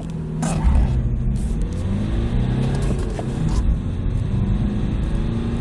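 BMW F30 3 Series diesel engine accelerating hard under full throttle. Its pitch climbs, drops back at a gear change a little past halfway, and climbs again, over a low rumble.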